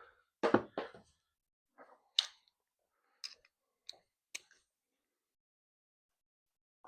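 A handful of short, sharp clicks and light knocks, spaced irregularly, from hand tools working on the metal body of a car while parts are unbolted.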